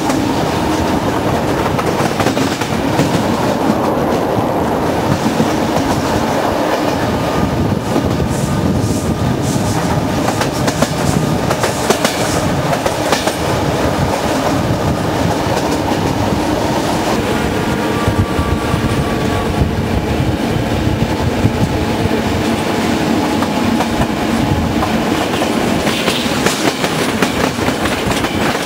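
Rapid passenger train running through a rail yard, heard from a carriage window: a steady rumble of wheels on rails with frequent clicks as the wheels cross rail joints and points.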